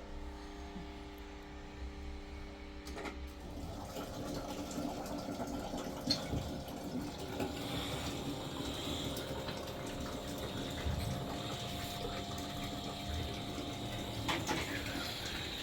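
Water running steadily, with a few small knocks.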